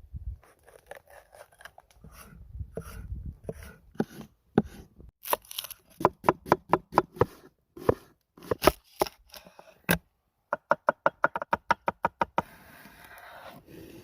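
Knife chopping food on a cutting board: a series of short sharp strokes, with a quick even run of chops about two-thirds of the way in.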